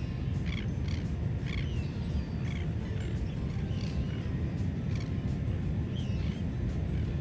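Birds calling repeatedly in short, squawky notes, roughly one or two a second, over a steady low rumble.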